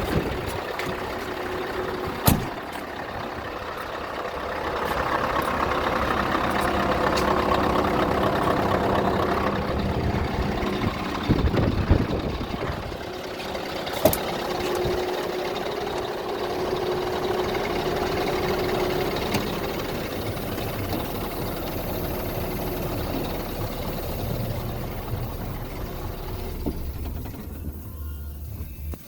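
Scania R500 truck's V8 diesel engine running, louder for several seconds early on, with three sharp clicks or knocks during the running.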